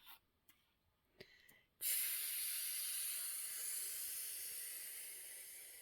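A person making a long hissing sound with the mouth, like steam. It starts suddenly about two seconds in and slowly fades away.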